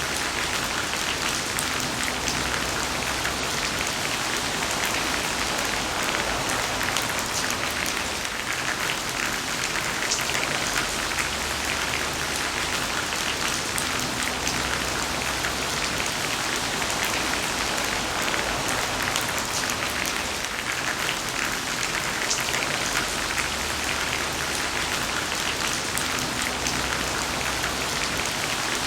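Heavy rain falling steadily: a dense, even hiss made up of countless drop impacts.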